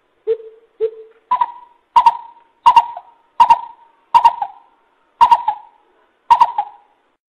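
Coucal (bubut) giving a series of about nine deep hooting notes. The first two are lower, and the rest are higher and evenly pitched, spaced a little under a second apart.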